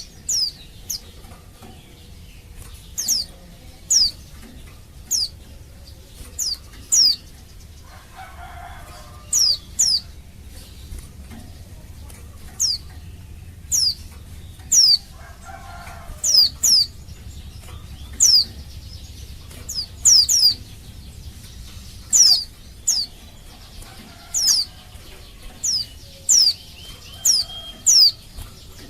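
Female white-eye (pleci) calling: short, high, quickly falling notes, often in twos or threes, repeated about once a second. It is the female's call used as a lure to make male white-eyes answer and sing.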